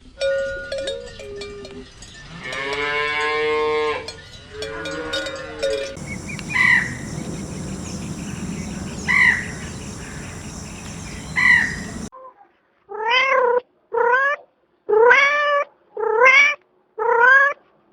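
A run of animal calls cut together, with different animals in turn. It ends in a clean series of six cat meows, each a short call that rises and falls, about one a second.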